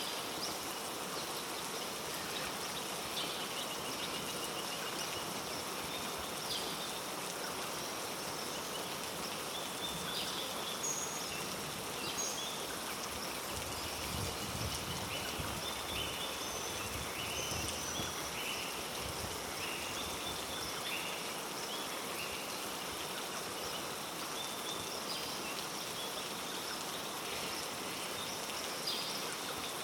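Steady heavy rain in a rainforest, with many short high-pitched chirps scattered over it and a low rumble about halfway through.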